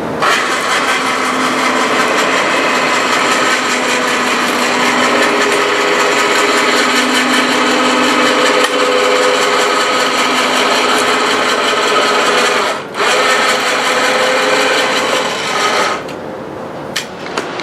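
Electric motor of a truck lift running steadily with a whirring hum, briefly stopping and restarting about thirteen seconds in, then cutting off near the end.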